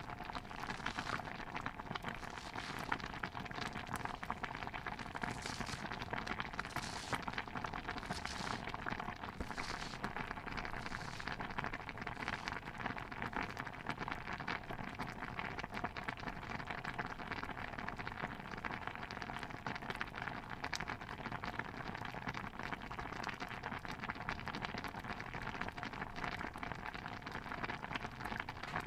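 Steady, dense crackling and pattering noise of a bubbling stew, with a few brief hissing swells about five to eleven seconds in.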